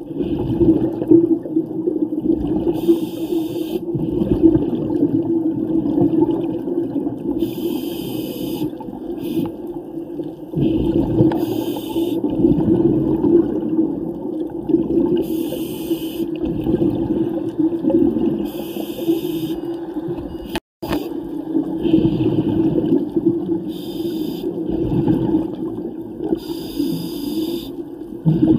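Underwater recording of a scuba diver breathing through a regulator: a short hissing burst comes every three to four seconds over a steady low rumble, and the sound drops out briefly about two thirds of the way in.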